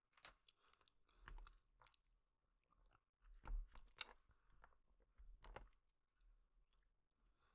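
Faint close-up chewing of a mouthful of spicy noodles, with a few short wet clicks and smacks; the loudest come about three and a half to four seconds in.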